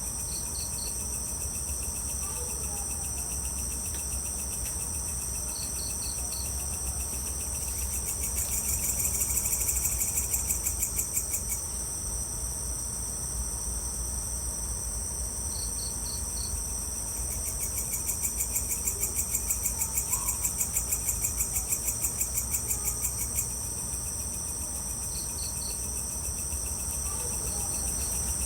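Evening insect chorus of crickets trilling steadily at a high pitch. A louder, fast-pulsing trill swells up twice, and short bursts of three or four chirps recur every few seconds. A low steady rumble runs underneath.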